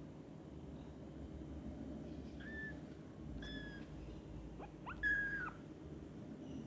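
A kitten mewing: three short, high-pitched mews, the last one longer and loudest at about five seconds in.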